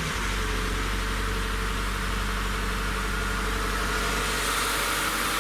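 Rebuilt car engine idling steadily just after starting, with an even low hum and no knocking. It now runs quietly on its new rocker arms and new camshaft.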